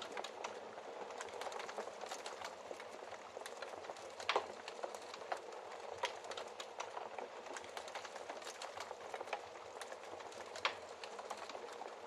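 Wood fire crackling in a fireplace: a steady soft hiss with frequent small snaps and a few louder pops, the loudest about four seconds in.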